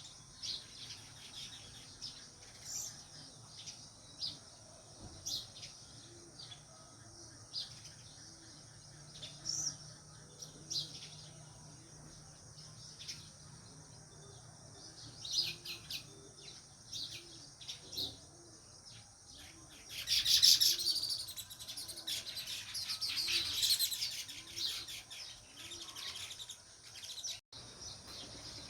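House sparrows chirping: scattered single chirps at first, then a dense flurry of many chirps together about two-thirds of the way through, the loudest part.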